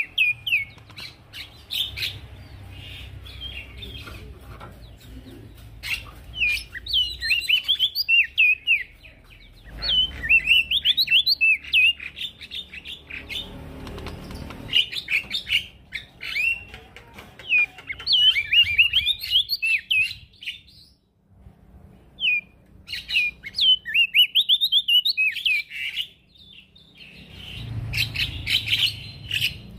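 Male prenjak daun singing in repeated bursts of rapid, high twittering notes, with short pauses between the phrases, over a faint low rumble.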